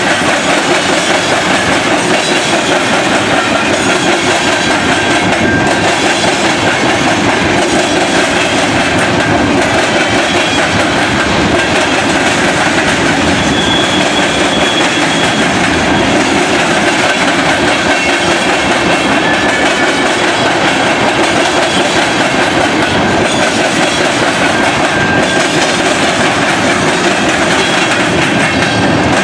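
Freight train cars rolling steadily past, wheels clicking over rail joints, with a faint high squeal from the wheels at times.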